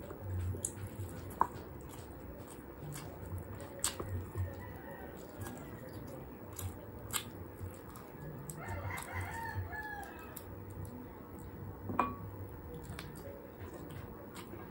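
Close-miked chewing of spit-roasted lechon manok eaten by hand: soft, repeated chewing with a few sharp clicks of biting and tearing. About nine seconds in, a wavering animal call sounds in the background for about two seconds.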